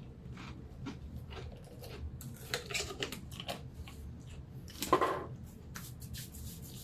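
Close-up chewing and crunching of a Pringles potato chip: scattered small crackles and clicks, with a louder crunch about five seconds in.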